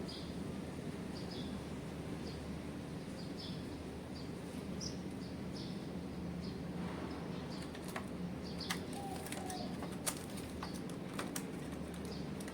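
Small birds chirping in short, high calls, roughly one every second, over a steady low rumble. From about seven seconds in, a string of sharp clicks joins them.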